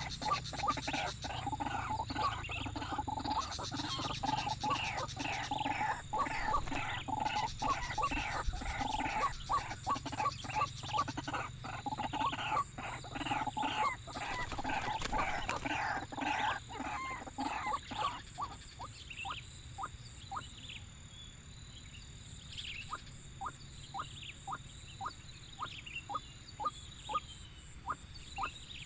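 White-breasted waterhens calling: a dense run of rapidly repeated calls that thins after about 18 seconds into a regular series of short notes about twice a second, over a steady high insect drone.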